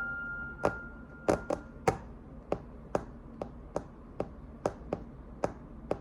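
A held piano note dies away over the first two seconds while about a dozen sharp taps sound in a loose, uneven beat.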